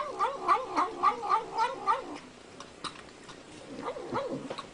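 A cat yowling in a rapid, wavering warble, pulsing about four times a second. It dies away about two seconds in, and a fainter wavering yowl comes back near the end.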